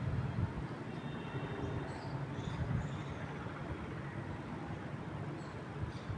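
Wind in trees and across the microphone, a steady low rumble, with a few faint bird chirps about two to three seconds in.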